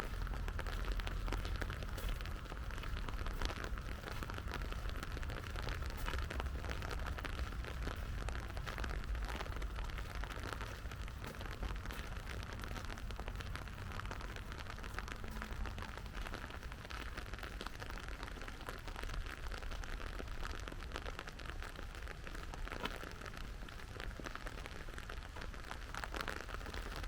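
Steady rain falling, with many small drops ticking throughout, over a low steady rumble.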